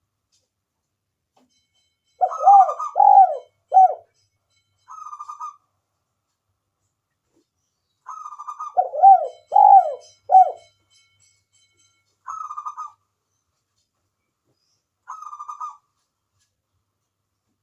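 Spotted dove cooing. Two full song phrases, about 2 s and 8 s in, each a rolling coo followed by three deeper, arched coos. Single short rolling notes sound in the pauses between them.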